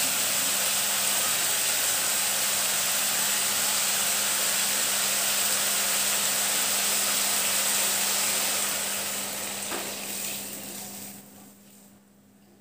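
Stir-fried vegetables sizzling steadily in a hot wok on a high gas flame, the sizzle dying away to near silence near the end.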